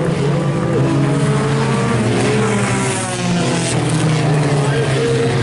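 Several IMCA Sport Compact race cars' four-cylinder engines running hard around a dirt oval, their pitch rising and falling near the middle as cars pass.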